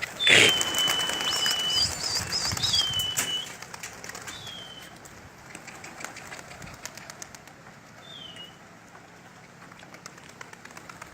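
Pigeons in a loft: a sudden rush of wing flapping and rustling in the first few seconds, then quieter. A few high, clear whistled bird notes, each dropping in pitch and the first held for about a second, come through it.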